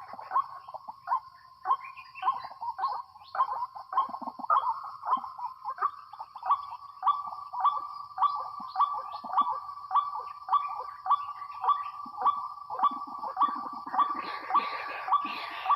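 White-breasted waterhen (ruak-ruak) calling over and over, a steady repeated call about twice a second, with louder overlapping calling near the end.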